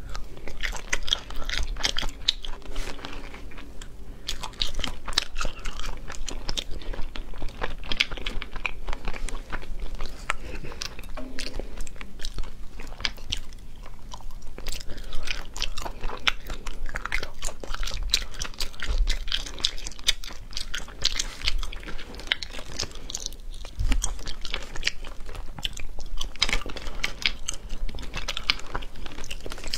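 Close-miked chewing and mouth sounds of a person eating sea snail meat, with frequent sharp clicks and smacks.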